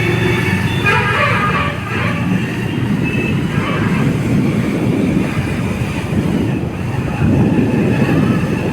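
Motorcycle on the move: a steady mix of engine, road and wind noise, with faint higher tones in the first few seconds.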